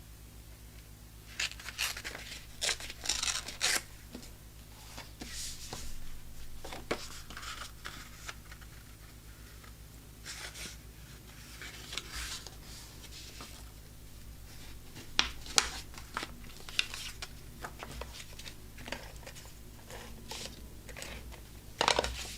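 Sheets of designer paper and cardstock being handled, rustling and sliding against each other, with scattered sharp taps and clicks; the handling is loudest about 2–4 s in, around 15 s, and near the end.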